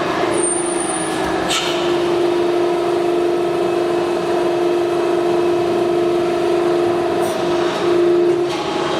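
Hydraulic pump and motor of a CNC press brake running with a steady hum, with a couple of brief clicks and a short high whistle near the start.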